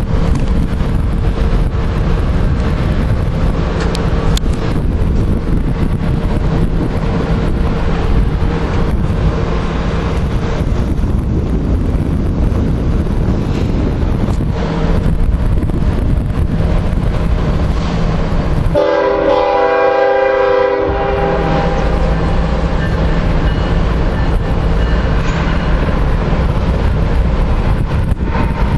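CP Rail freight locomotive and train rumbling past on the rails. About two-thirds of the way through, the locomotive's air horn sounds one loud chord for about two seconds.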